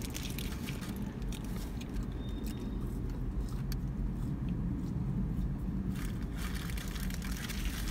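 Close mouth sounds of people chewing and biting fast food (burgers and fries), with small clicks and crackles, which are denser near the end, likely from the paper wrappers. A steady low hum runs underneath inside the car.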